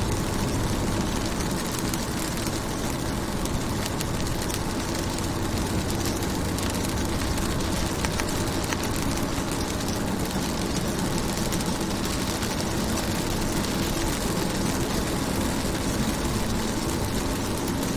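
Steady rain falling on a car's window and body: a dense hiss of many small drop impacts, with a low, even rumble underneath.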